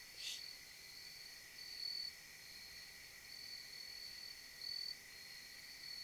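Crickets trilling in a steady night chorus: one high trill swells louder every second or two over a lower steady trill. A single brief sharp click sounds about a third of a second in.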